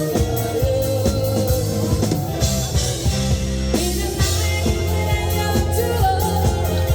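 Live rock band playing a song, with drum kit, bass, guitars and a singer's voice over amplified sound.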